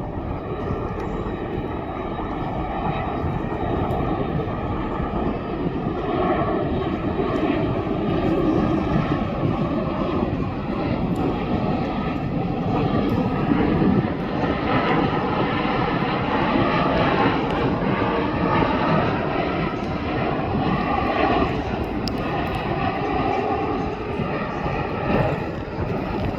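An airliner's engines running close by: a loud, steady rush of noise with faint whining tones that drift slowly in pitch, growing a little louder a few seconds in.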